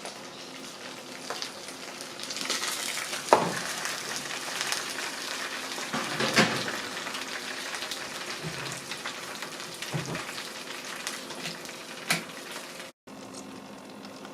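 Roast chicken pieces sizzling and crackling in a hot roasting tray, with about three sharp knocks of metal on metal.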